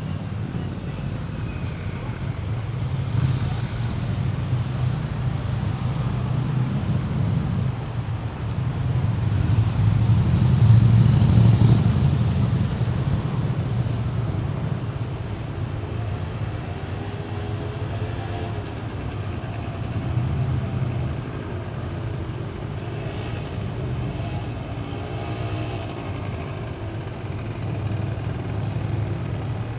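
City street traffic: a steady low rumble of passing vehicles that swells as one goes by close about ten to twelve seconds in.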